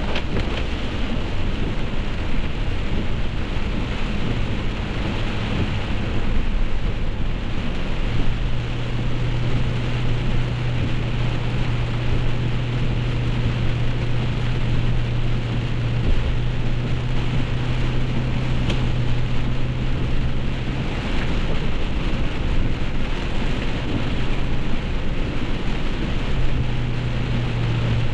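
Heavy rain pattering on a moving car, with a steady low hum of engine and road noise underneath.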